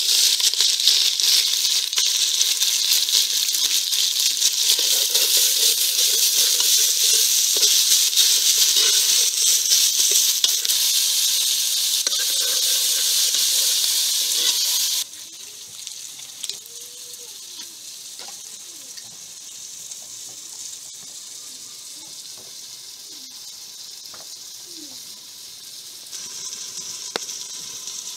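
Food hitting hot oil in a metal pot over a wood fire and frying with a loud, steady sizzle that starts suddenly as it is tipped in. About halfway through, the sizzle drops abruptly to a much quieter level and picks up a little again near the end.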